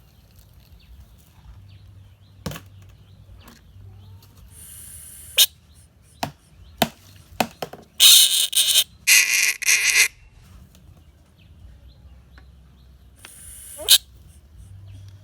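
Bullfrog screaming in distress: two long, loud screams about eight and nine seconds in, and a shorter one near the end. Several sharp clicks come before them.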